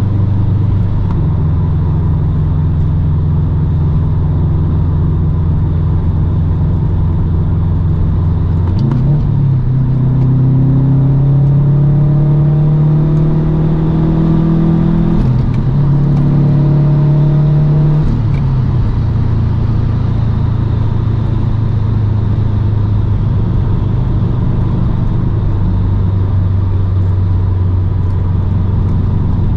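2008 Subaru Impreza WRX STI's turbocharged 2.5-litre flat-four, breathing through an Invidia catted downpipe and Invidia N1 exhaust, cruising with a steady drone. About nine seconds in it accelerates, its pitch climbing, dipping briefly for an upshift and climbing again. It settles back to a steady cruise a few seconds later.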